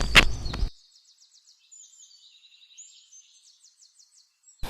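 A sharp click in a brief burst of noise at the start, then only faint, high, repeated bird chirps and trills.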